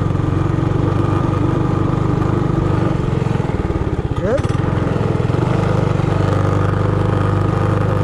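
Trailmaster Hurricane 200X minibike's single-cylinder engine running steadily under throttle. It drops off briefly about halfway through, then revs back up with a rising pitch.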